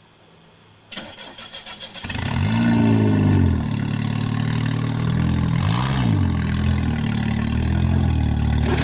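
Car engine cranked by its starter for about a second, catching about two seconds in. It is revved up and back down twice, then runs steadily.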